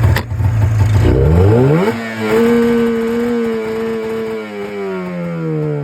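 Polaris 440 two-stroke snowmobile engine firing and running: low and steady at first, revving up about a second in, holding briefly, then the revs slowly sag away. The engine only fires up every once in a while, a starting fault the owner has yet to track down.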